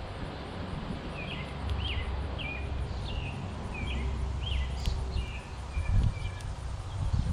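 A small bird singing a run of about ten short chirps over some five seconds, over a steady low outdoor rumble, with a couple of brief low thumps near the end.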